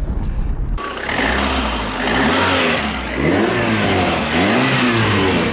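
Lada's four-cylinder fuel-injected engine revved several times under the open hood, its pitch rising and falling with each blip of the throttle, starting a little under a second in. The revving is part of a fuel-pressure test with a gauge connected, checking that pressure holds at about 4 bar under throttle.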